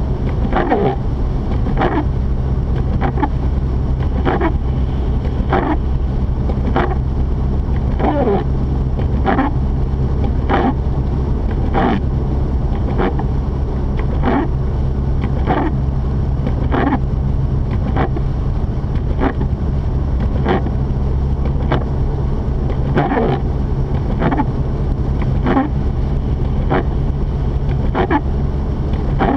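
Mazda RX-8 two-rotor rotary engine and tyres making a steady low drone, heard from inside the cabin while driving. Over it, the windshield wipers make a short sweep with a slightly falling pitch about every 1.2 seconds.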